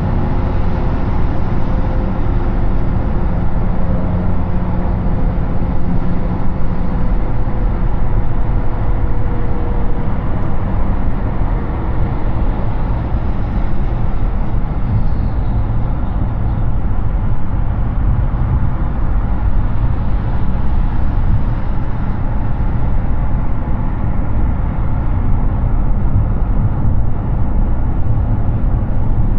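Steady tyre and wind noise of a Hyundai Ioniq 6 electric car cruising on a highway, with no engine note. A faint hum fades out over roughly the first dozen seconds.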